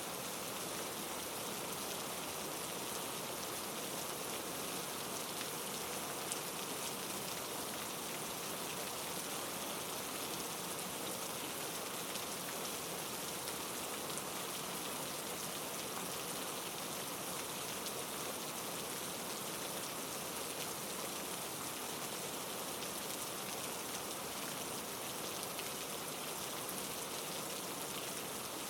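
Heavy rain falling in a steady, even hiss, with a few sharper drop ticks.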